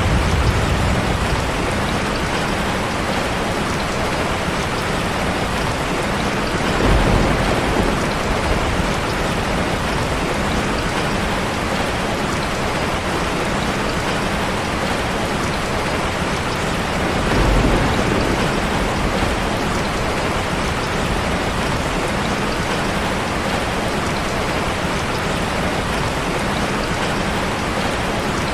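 Steady heavy rain, a dense even hiss. A low rumble fades out at the start, and two brief low rumbles swell up about seven and seventeen seconds in.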